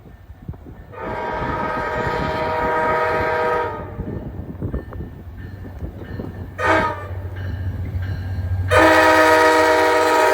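Virginia Railway Express commuter train's air horn sounding a multi-note chord: a long blast of nearly three seconds, a short blast about three seconds later, then another long, louder blast starting near the end, over the low rumble of the train.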